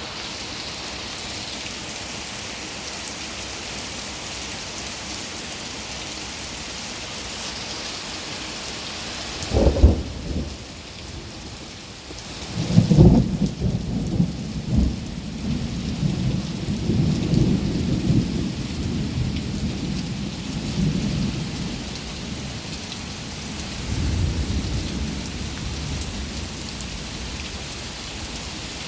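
Steady, heavy rain falling. About ten seconds in there is a short, loud clap of thunder. A few seconds later comes a long rolling rumble of thunder lasting several seconds, then a shorter rumble after it.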